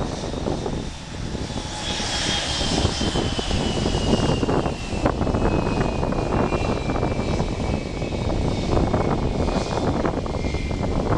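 Dash 8 turboprop airliner passing on a crosswind landing, its high engine whine falling steadily in pitch. Gusty wind buffets the microphone throughout.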